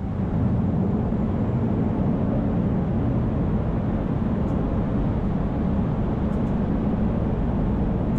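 Steady rumbling airflow noise in an Airbus A220-300 cockpit on approach. The rumble steps up about half a second in as the extended landing gear meets the airstream, then holds steady.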